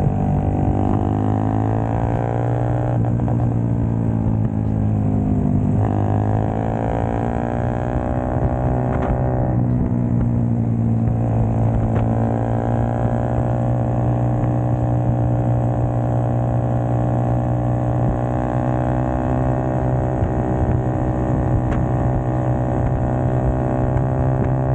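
Small single-cylinder engine of a Honda 4-mini motorcycle running while riding, its revs rising and falling with gear changes every few seconds, then holding steadier through the second half.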